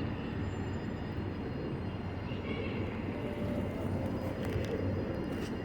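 Steady outdoor background noise with a low hum underneath. A faint, brief high-pitched sound comes a little over two seconds in.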